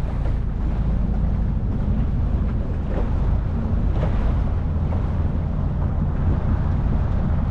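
Small motorboat under way, its motor running steadily below full throttle, with wind buffeting the microphone.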